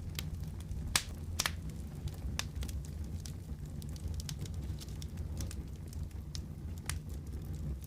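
Fireplace fire crackling, with scattered sharp pops, the loudest about a second in, half a second later, and near the end, over a steady low rumble.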